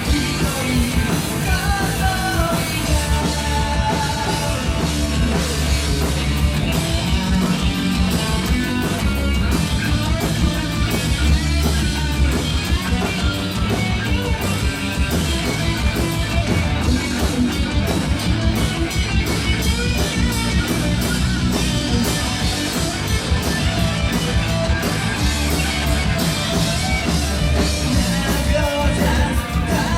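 A rock band playing live: distorted guitars, bass and a busy drum kit, with a singer's voice over them.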